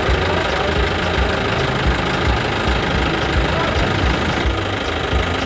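An engine or motor running steadily, with a low, uneven thumping a few times a second.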